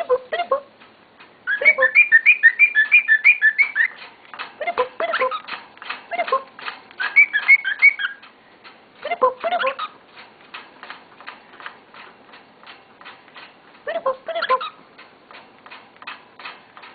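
A pet bird chirping and whistling in quick runs of short notes, with pauses between the runs. A faint, steady ticking of about three beats a second runs under the second half.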